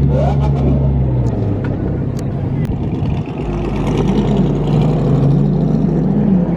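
A car engine running steadily, its tone changing about halfway through, with voices in the background.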